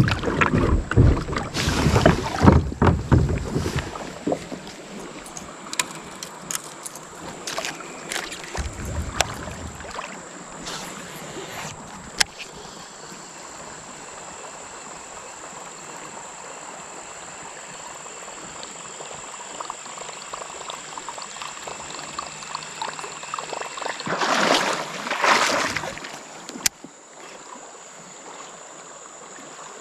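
Kayak on a creek: water splashing and rushing around the boat and paddle, loudest in the first few seconds and again about 24 seconds in, over steady running water. A few sharp knocks and a thin steady high tone run through it.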